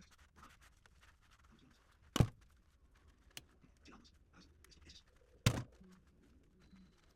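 Blender parts being handled while they are washed: two sharp knocks about three seconds apart, with a small click and faint scrubbing or scraping in between.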